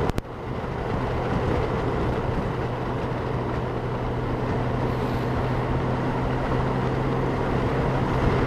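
Honda Gold Wing motorcycle running steadily at cruising speed, heard from a helmet-mounted camera with wind rushing over the microphone. There is a brief click and dropout just after the start.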